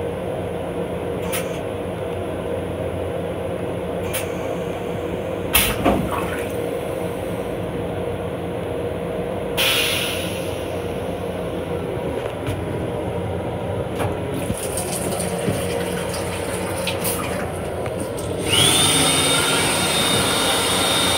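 M7 electric railcar running, heard inside its restroom: a steady rumble and hum, with scattered sharp clicks and knocks and a brief hiss about ten seconds in. Near the end a louder rush of air begins, with a whine that rises and then holds at a high steady pitch.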